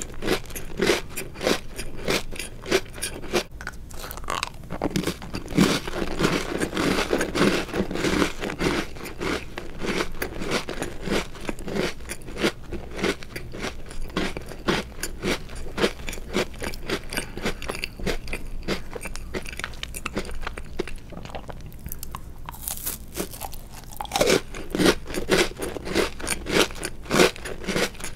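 Close-miked chewing of chocolate-covered Oreo cookies, with a steady run of crisp crunches. The crunching eases off for a few seconds past the middle, then comes back sharper near the end.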